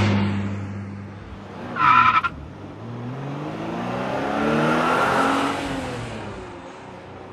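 A short blast of a car horn about two seconds in, then a car drives past, its engine note rising as it approaches and falling away as it goes.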